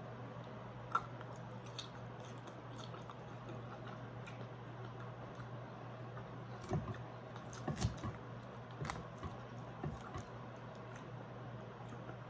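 A person eating Caesar salad with baked chicken: faint chewing with scattered light clicks and a few soft knocks, over a steady low hum.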